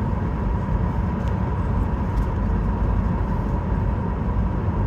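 Steady road and engine noise of a moving car heard from inside the cabin, with a faint steady hum and a couple of light ticks.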